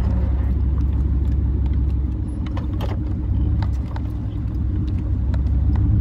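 Pickup truck's newly fitted side-exit exhaust rumbling as the truck is driven, heard from inside the cab with the windows up. It eases off about four seconds in and builds again near the end.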